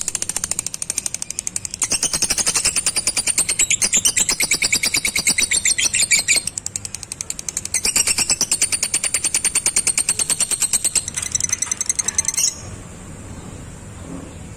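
Lovebird's long rapid chattering trill (ngekek): a fast machine-gun run of sharp high notes, about ten a second. It comes in two long bursts with a weaker patch between them, and breaks off suddenly about twelve seconds in.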